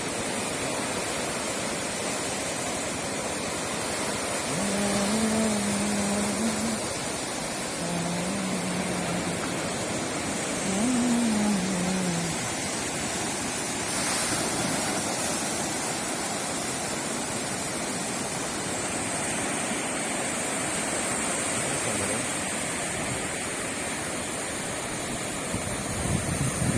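Sea waves washing onto a beach, a steady rush of surf. A few short low hums sound faintly over it between about five and twelve seconds in.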